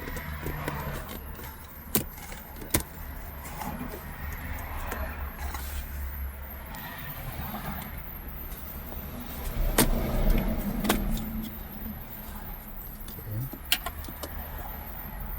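Console trim around a car's gear shifter being pried out by hand: sharp clicks of clips and trim coming loose about 2 and 3 seconds in, again around 10 and 11 seconds and once near the end, with rustling and handling noise in between.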